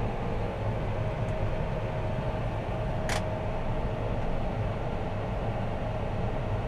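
John Deere 6215R tractor's six-cylinder diesel engine running steadily under ploughing load, heard as a steady drone inside the cab. A faint steady whine joins about a second in, and there is a single sharp click about halfway through.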